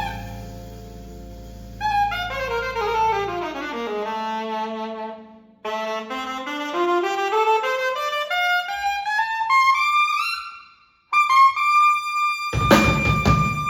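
Solo saxophone improvising: a fast run of notes falling about two octaves, a short break, then a long run climbing back up to a high held note. The full band with drums comes in under the held note near the end.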